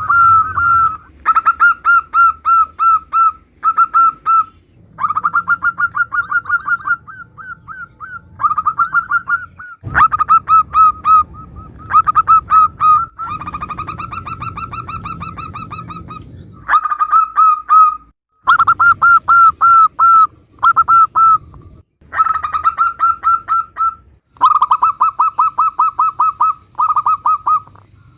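Zebra doves (perkutut) cooing: runs of rapid, staccato repeated notes in bursts of a few seconds with short pauses between, from several spliced recordings with differing background noise.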